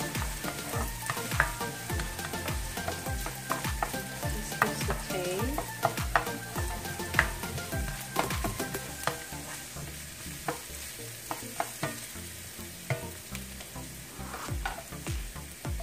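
Chopped onion and garlic sizzling in oil in a ceramic-coated frying pan, stirred with a spoon that scrapes and taps against the pan. The stirring thins out near the end while the sizzle goes on.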